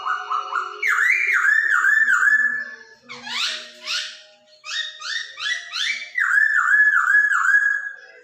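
Poksay Hongkong songbird singing loud, clear whistled phrases: runs of about five quick notes, each falling in pitch, repeated again and again, with a burst of sweeping rising notes in the middle.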